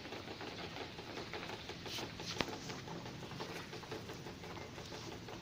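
Rain pattering and dripping steadily, many small drops ticking, with one sharp click about two and a half seconds in.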